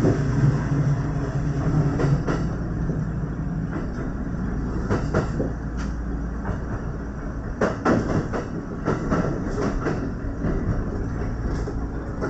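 Kintetsu 1031-series electric train running along the line, heard from the driving cab: a steady rumble of wheels on rail, with sharp clicks as the wheels cross rail joints and points, bunched around the middle and again near the end. A low drone sounds in the first couple of seconds.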